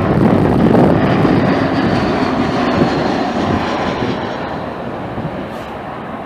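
Jet airliner passing close by and fading away: a loud rush of engine noise with a faint high whine that drops slightly in pitch, dying down over the last few seconds.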